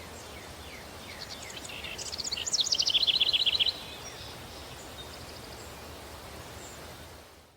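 Countryside daytime ambience: a steady breeze with birds calling, one bird singing a loud, rapid trill from about a second in to nearly four seconds. The ambience fades out at the very end.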